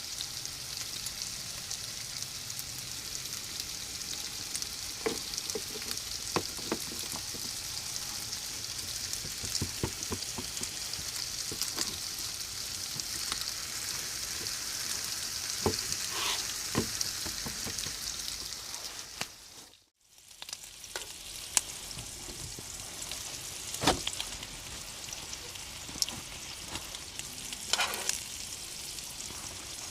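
Bacon sizzling in a pan, a steady high hiss with scattered crackling pops of spattering grease. It drops out abruptly about two-thirds through and returns weaker.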